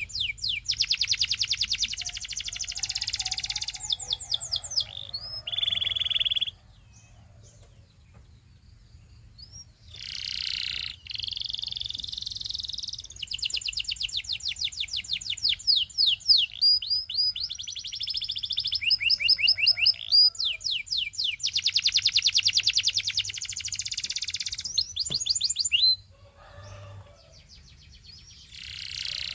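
Canary singing: phrases of fast repeated whistled notes and buzzy rolls, several seconds each, broken by two pauses of about three seconds, one a quarter of the way in and one near the end.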